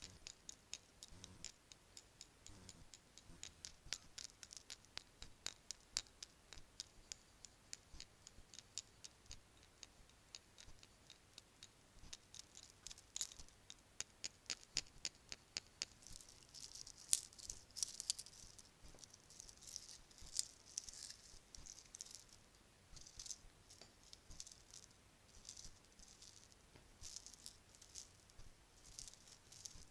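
Bracelets clinking and rattling against each other in many quick, light clicks. From about halfway through the clicks turn into denser shaking bursts.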